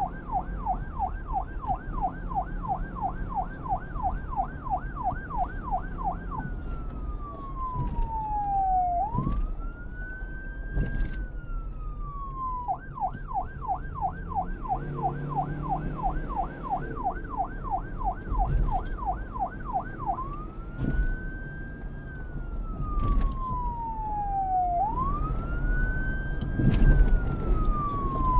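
Electronic emergency-vehicle siren switching between a fast yelp and a slow rising-and-falling wail: yelp for about six seconds, then slow wail cycles, yelp again from about 13 to 20 seconds, then wail again. A low rumble of traffic or engine runs underneath.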